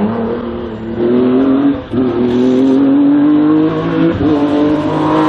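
Race car engine under hard acceleration, its pitch climbing and dropping sharply at gear changes about two seconds in and again about four seconds in.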